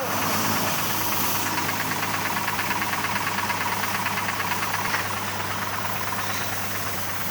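A motor running steadily with a constant low hum, with a fast, even pulsing rattle over it for a few seconds in the middle.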